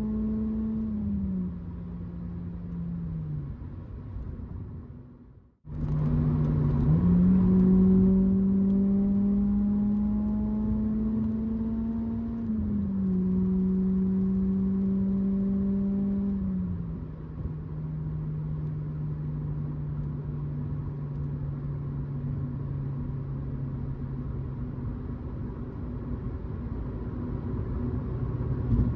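2006 Acura RSX Type-S's K20Z1 2.0-litre four-cylinder through an Invidia N1 catback exhaust, pulling through the gears: the exhaust note climbs slowly and drops at upshifts about a second in and again about twelve seconds in. The sound cuts out briefly about six seconds in, and from about seventeen seconds the engine settles into a steady, lower cruising drone.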